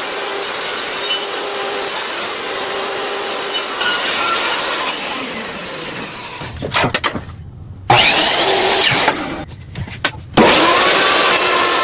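Table saw running and ripping a wooden piece, shaving it down to fit: a steady saw-through-wood noise that cuts out briefly twice in the second half and then resumes.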